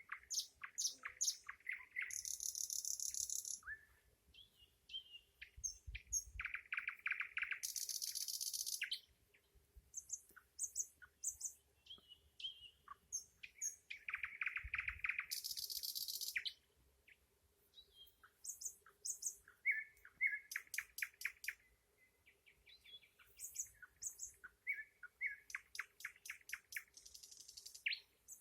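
Nightingale singing: a string of varied phrases of fast repeated notes, each followed by a short pause, with four loud, high rattling trills of about a second and a half each.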